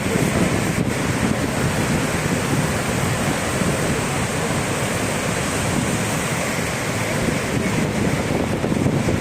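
Steady rushing roar of Niagara Falls' falling water, with wind buffeting the microphone.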